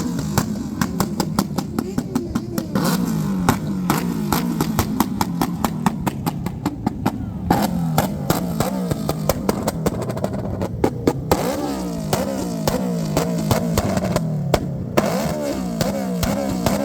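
Motorcycle engines revved up and down again and again, with many sharp cracks and pops throughout.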